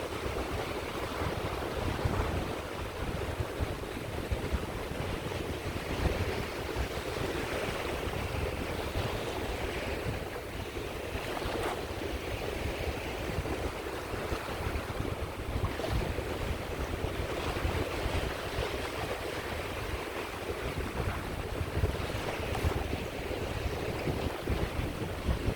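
Caspian Sea waves washing onto the shore in a steady, continuous surf, swelling softly every few seconds, with wind buffeting the microphone.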